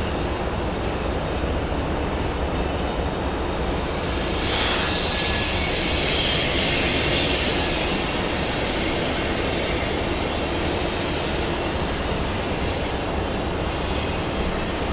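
Freight train rolling past with its wheels squealing in a steady high tone, over the steady rush of a fast river; it swells louder about five seconds in.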